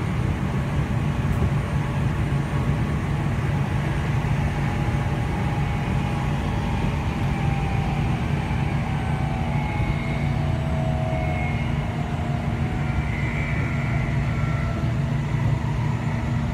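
Running noise of a train heard from inside the carriage: a steady low rumble and hum, with faint wavering higher tones now and then.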